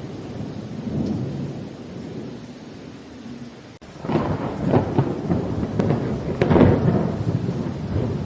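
Rain with rolling thunder: a low rumble, then after a split-second break in the sound a louder crackling thunderclap rolls in about halfway through and peaks in the second half.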